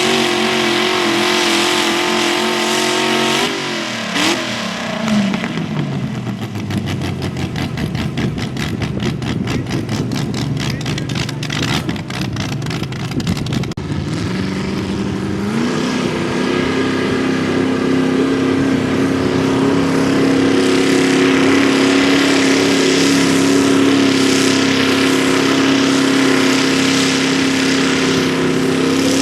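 Engine of a pulling garden tractor held at high revs, dropping off to a lumpy idle about four seconds in. It revs back up about sixteen seconds in and holds steady at high speed until it cuts off abruptly.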